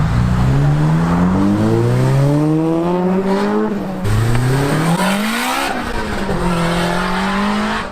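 A car accelerating hard with its engine pitch climbing, dropping sharply at a gear change about four seconds in, then climbing again as it drives past and holding steadier near the end.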